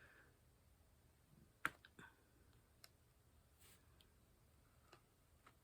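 A few faint, scattered clicks and taps, the sharpest about a second and a half in: small plastic sounds of diamond-painting work, a drill pen picking up resin drills and pressing them onto the canvas.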